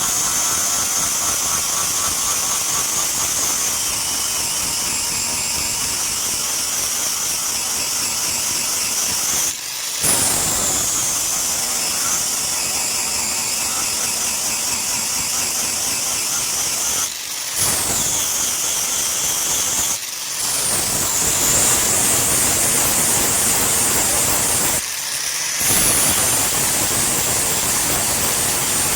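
Power grinder grinding steel: a loud, high whine over harsh grinding noise. It stops briefly four times, and each time it resumes the pitch falls as the wheel bites into the metal.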